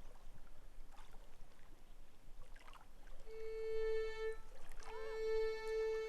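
Faint water sounds, then about three seconds in a violin begins holding a long, steady note, pausing briefly and taking it up again.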